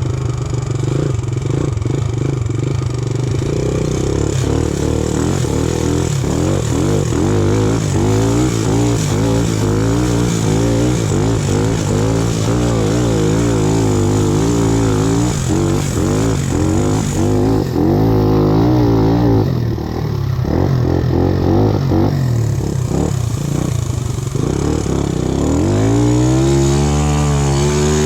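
Satoh S650G tractor engine running hard, its pitch wavering rapidly up and down as the tractor is driven over rough ground, with scattered knocks and rattles. Near the end it revs up sharply.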